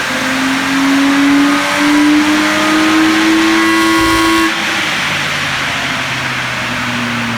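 Ford FG XR6's naturally aspirated 4.0-litre inline-six, with a full aftermarket exhaust, accelerating under load, its note rising steadily in pitch. About four and a half seconds in the throttle comes off and the sound drops to a lower, quieter drone.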